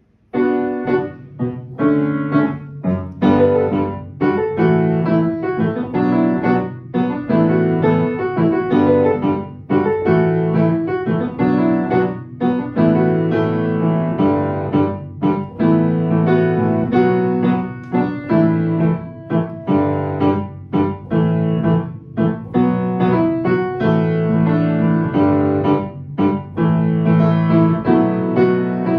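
Solo piano playing an arrangement of an indie rock song, melody over repeated chords, beginning just after the start and continuing steadily.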